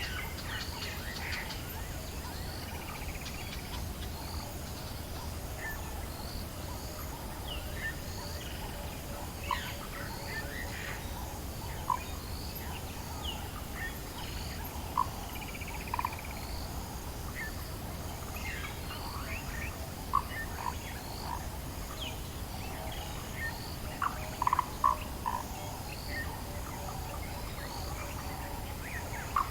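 African bush dawn chorus: many birds giving short chirps and calls, with a steady high buzz of insects underneath. A few sharper calls stand out, several in quick succession near the end.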